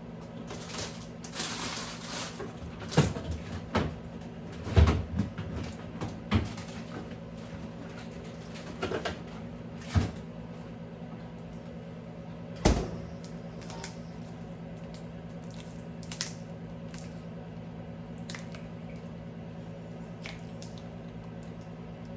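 Knocks, clinks and rustles of containers and shelves being handled while a refrigerator is cleaned out, most of them in the first half, with a sharp knock about halfway through, over a steady low hum.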